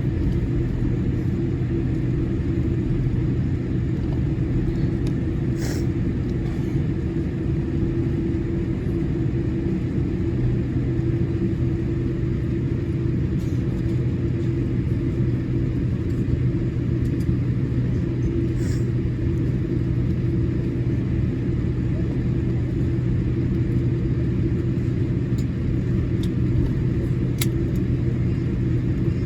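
Cabin noise of a Boeing 787-8 Dreamliner taxiing after landing: a steady low rumble with a steady hum, and a few faint clicks.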